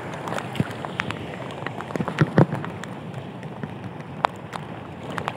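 Rain pattering on choppy sea water: a steady hiss dotted with scattered sharp ticks, with a few louder knocks about two seconds in.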